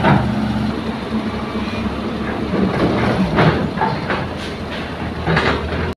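Heavy diesel earthmoving machinery running steadily, with several short clanks and knocks in the second half.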